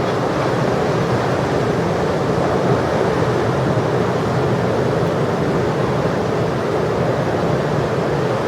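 Steady rushing noise of heavy ocean surf breaking, mixed with wind buffeting the microphone.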